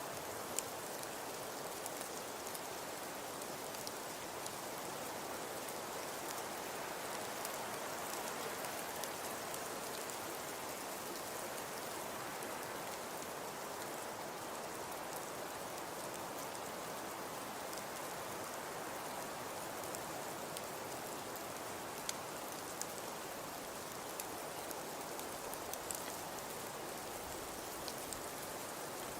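Wood fire crackling in a fireplace: a steady soft hiss with scattered small pops and snaps, a few of them sharper.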